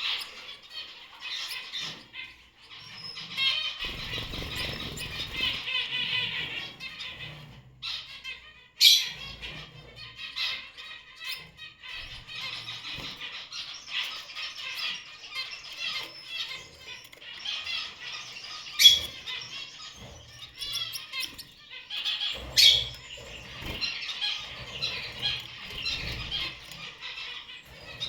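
Gouldian finches chirping and calling in a busy, continuous chatter, broken by three sharp clicks.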